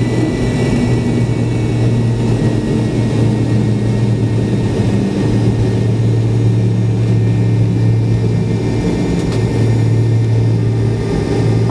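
Steady jet engine and airframe noise heard inside the cabin of a McDonnell Douglas MD-82, near its tail-mounted Pratt & Whitney JT8D turbofans, as the airliner rolls along the runway or taxiway after landing. A deep hum runs under a rushing noise, with faint steady whines higher up.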